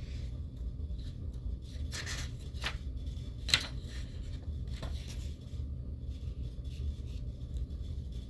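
Low steady room hum with a few soft paper rustles and clicks, the sound of manga pages being handled, the loudest a little over three seconds in.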